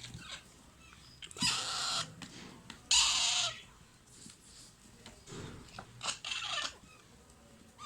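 Alexandrine parakeet chicks giving harsh, raspy food-begging calls in a few short bursts, the loudest about three seconds in.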